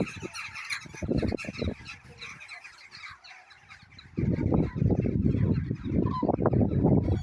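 A large flock of common cranes calls continuously, many overlapping trumpeting calls at once, with a couple of clearer single calls near the end. A loud low rumbling noise covers the second half.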